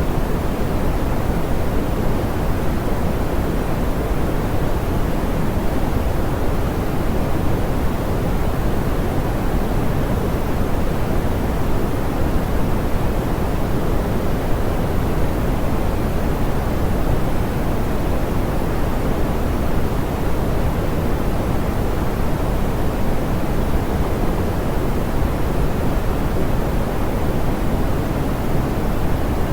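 Steady, smoothed pink noise: an even hiss weighted toward the low end, soft in the highs, with no change or events.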